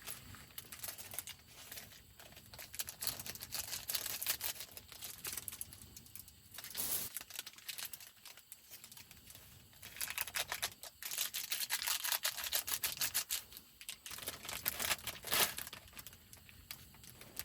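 Crinkling and rustling handling sounds in several bursts of fast crackles, strongest about four seconds in, from about ten to thirteen seconds, and again near fifteen seconds.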